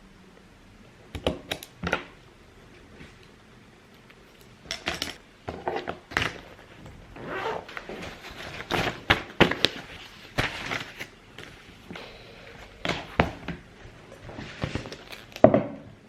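Irregular knocks, taps and clatter of objects being handled and set down, in clusters of several a second.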